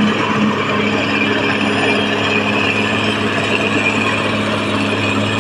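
Caterpillar D6R XL crawler bulldozer's diesel engine running steadily, with a constant mechanical clatter mixed in.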